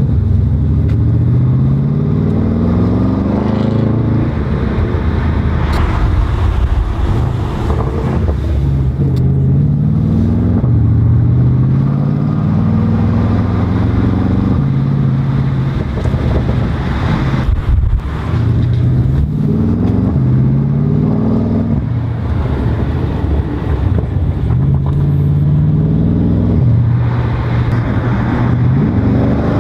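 Porsche Panamera Turbo S twin-turbo V8 through a TechArt aftermarket exhaust, accelerating hard again and again: the engine note climbs in pitch and drops back at each gear change, several pulls in a row.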